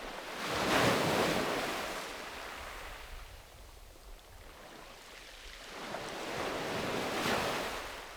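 Sea waves washing onto a beach: two waves, the first breaking about a second in and the second about seven seconds in, each swelling and then fading away in a long hiss, with a little wind on the microphone.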